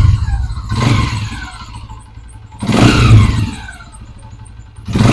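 Motorcycle's pushrod engine running and revved with throttle blips about a second in, around three seconds in and again near the end, each rev falling back to idle. The engine has freshly fitted pushrods and tappets reset to a 0.08 gauge, and the tappet noise has been cured.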